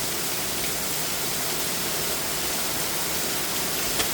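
Torrential rain pouring down in a steady, loud hiss, with water streaming off a patio roof like a waterfall. A single sharp drip or tap comes near the end.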